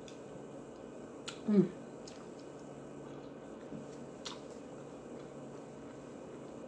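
A person eating fried rice with a fork: a few sharp clicks and wet smacks of chewing, with one short hummed 'mm' about a second and a half in.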